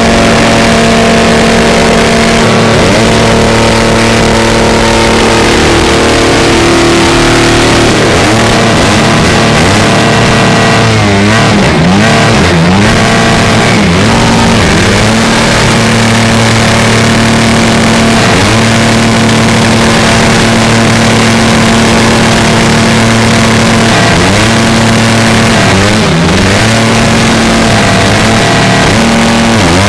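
Dirt bike engine held at high revs in a tyre-smoking burnout, its rear tyre spinning on asphalt. The pitch stays steady, then drops and climbs back several times, mostly around the middle and near the end.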